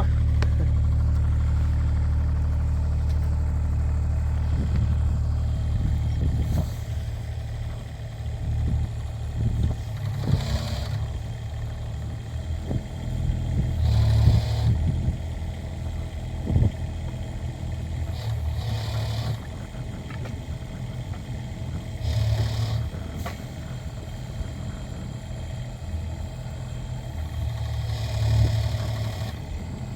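Kubota mini excavator's diesel engine running, rising in pitch and load about five times as the hydraulic post-hole auger is worked, with scattered clattering and scraping.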